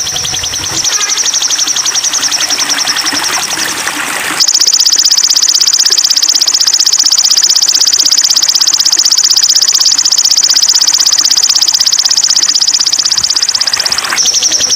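A bird's high, rapidly pulsing trill, sung on without a break, from a masteran song recording used to train caged songbirds. It becomes louder and slightly higher about four seconds in and drops back near the end.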